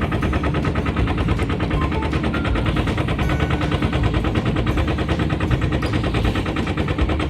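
Small boat's engine running steadily, its exhaust a rapid, even popping.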